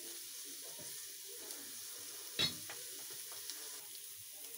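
Chopped vegetables, egg, chicken and shrimp stir-frying in a pan over a full flame: a steady sizzle, with a single sharp knock about halfway through.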